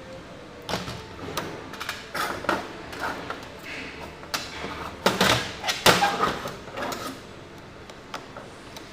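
Irregular clicks, knocks and clinks of tools and small metal carburetor parts being handled on a workbench, the loudest cluster about five to six seconds in.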